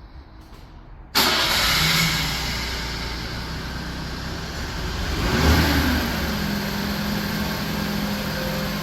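A motor vehicle engine running. It comes in suddenly about a second in, swells briefly about five and a half seconds in, then settles into a steady hum.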